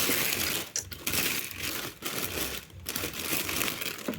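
Plastic packaging crinkling and rustling as it is handled, in several bursts with short pauses between them.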